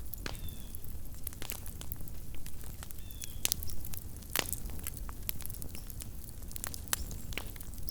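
Small wood campfire crackling: irregular sharp snaps and pops, a couple of louder ones in the middle, over a low steady rumble.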